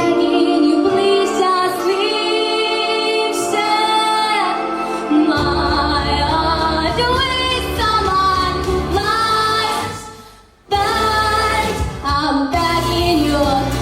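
A female voice singing a song over instrumental accompaniment, holding long wavering notes. A low bass part comes in about five seconds in, and the music briefly fades almost to nothing just after ten seconds before the singing resumes.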